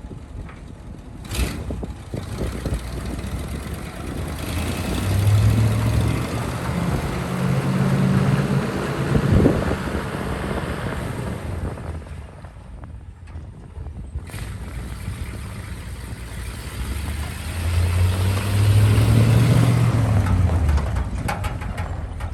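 1974 Ford F600 grain truck's engine running, revved up twice: once about five seconds in and again near the end, the pitch rising then falling back each time.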